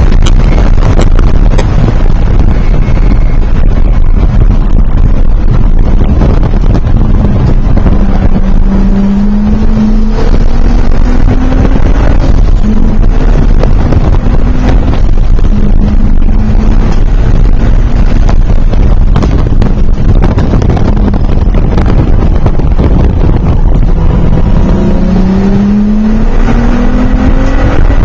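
Car engine pulling hard, heard from inside the cabin. It is very loud, with heavy road and wind noise, and the engine note climbs in pitch about eight seconds in and again near the end as the car accelerates.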